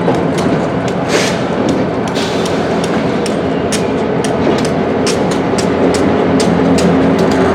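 Freight cars rolling through a rail yard, their wheels clicking over rail joints in a steady rhythm of about three clicks a second, often in pairs. Under it runs the steady hum of a diesel locomotive's engine.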